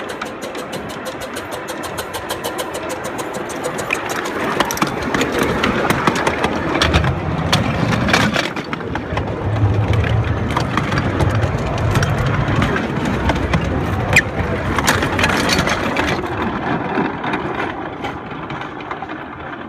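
Steam train rolling over the track, heard from beneath: rapid clicking and clatter over a rumble. The rumble swells to a peak in the middle, with a sharp crack a little after, then fades.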